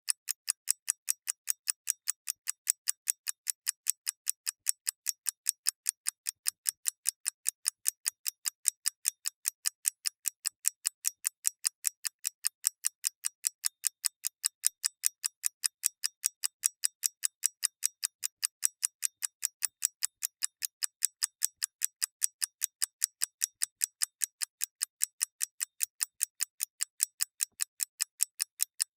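Mechanical clockwork ticking: sharp, crisp ticks in a fast, perfectly even rhythm of about five a second, with no other sound.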